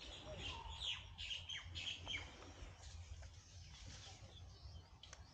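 Birds chirping: a run of short, quick downward-sliding chirps, thickest in the first two seconds and thinning out after, over a low rumble.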